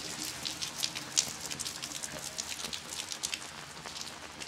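Steady rain falling, with individual raindrops ticking sharply and irregularly close by; one sharper tick about a second in.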